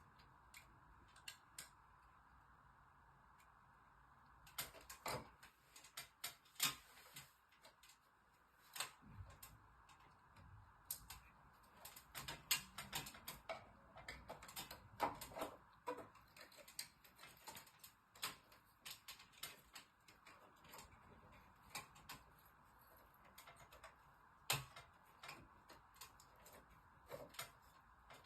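Irregular light clicks and taps, like small parts and tools being handled, over a faint steady hiss. The clicks come in clusters, busiest through the middle.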